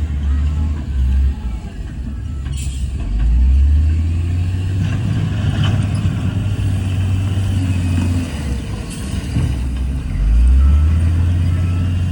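The diesel engine of heavy earthmoving equipment running, a deep rumble that swells as it takes load and then eases off. A short sharp noise comes about two and a half seconds in.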